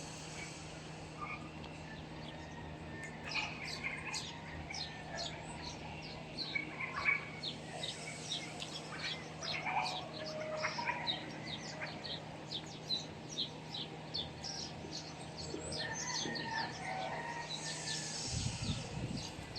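Many small birds chirping, a dense run of quick, high chirps with a few lower whistled notes, over a faint steady hum. A low rumble rises near the end.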